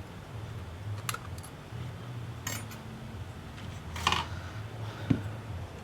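A few light, separate clicks and taps of small tools and parts being handled on a workbench during tablet disassembly, over a steady low hum.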